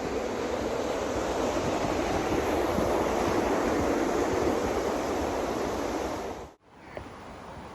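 Steady rush of flowing water from a forest river or waterfall, swelling slightly before cutting off abruptly about six and a half seconds in, after which only a much quieter background hiss remains.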